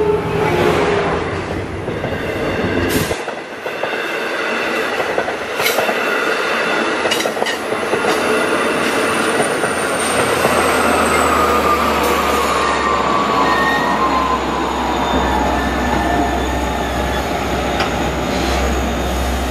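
Long Island Rail Road diesel-hauled train at a station: a horn tone dies away at the start, then a long, slowly falling squeal of wheels on rail, with a low rumble building in the second half.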